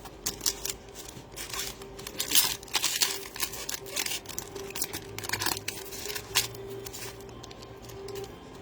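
Trading cards and their foil-plastic pack wrappers being handled: a quick run of crinkles, rustles and card slides.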